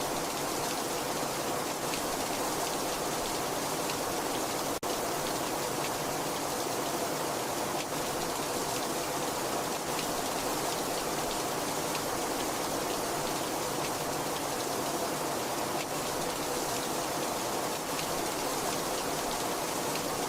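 Very heavy rain falling in a steady, dense wash, with one split-second dropout about five seconds in.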